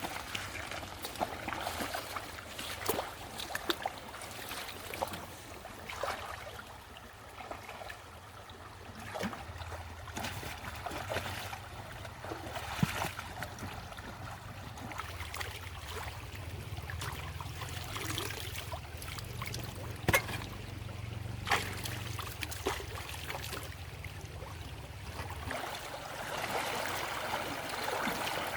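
Water trickling and splashing, with many scattered sharp clicks and knocks, and a steady low hum through the middle stretch.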